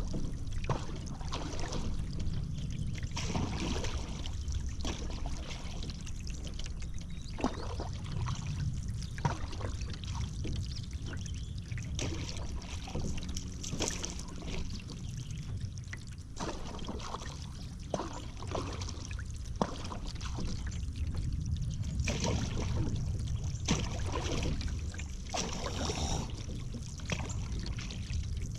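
Paddle strokes in river water: the blades dip and splash, with water pouring and trickling off them in irregular bursts, over a steady low rumble.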